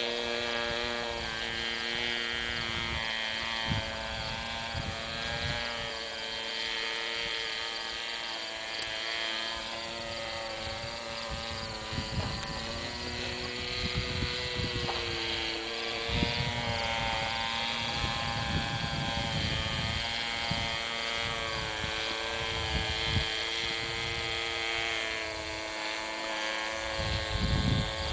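Remote-control model airplane's motor and propeller giving a steady droning whine that shifts up and down in pitch several times as it flies. Wind buffets the microphone with irregular low rumbles, heaviest near the end.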